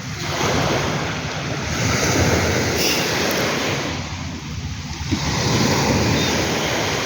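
Ocean surf breaking and washing up the beach, swelling in, easing off for a moment, then surging again, with wind rumbling on the microphone.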